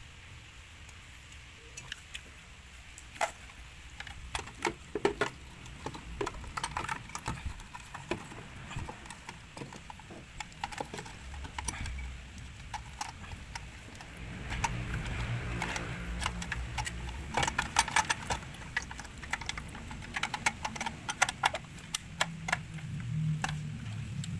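Metal tools and fittings clinking and tapping in repeated irregular handling, with a low rumble underneath that grows louder about halfway through.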